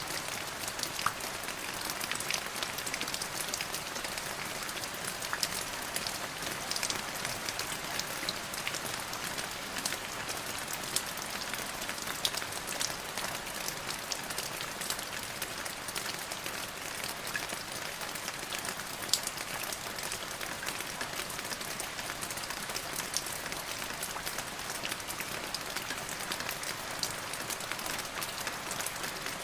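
Steady rain falling, a constant hiss with many separate drops ticking on a surface.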